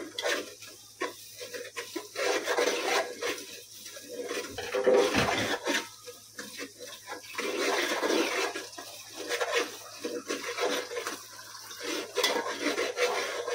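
Curry masala of tomato paste and ground spices frying in oil in a pot while being stirred with a spoon: sizzling with spoon scrapes against the pot, coming and going every second or so. This is the bhuna stage of frying the masala.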